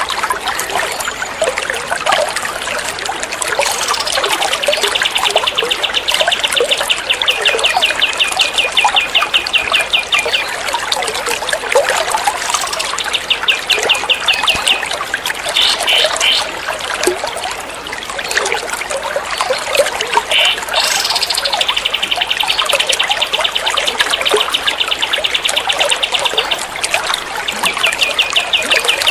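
Water trickling steadily, with a songbird's rapid machine-gun trill: long runs of quick, evenly repeated high notes, about eight a second. The runs last several seconds each and come twice, with shorter bursts in between.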